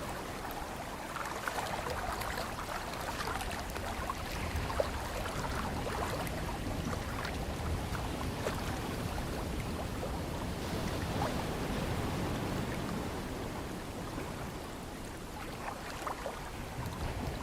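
Ocean water washing and lapping, with many small splashes and trickles over a low rumble, easing slightly near the end.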